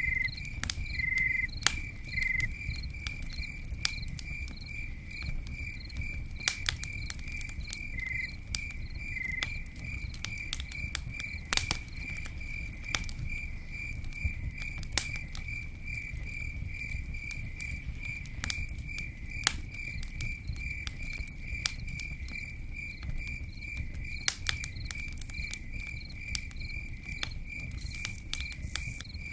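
Campfire crackling with irregular sharp pops over a steady low rumble, while a cricket chirps in an even pulse, about three chirps a second. A second cricket chirps a few times in the first ten seconds.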